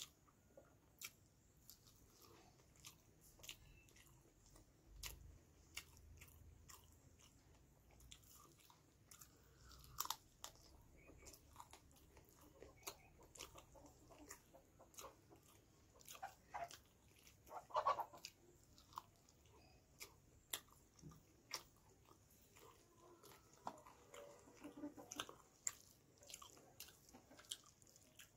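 Close-up eating sounds of rice and chicken curry eaten by hand: chewing with many short wet mouth clicks and smacks, and fingers squishing rice into curry. The loudest smacks come about two-thirds of the way through.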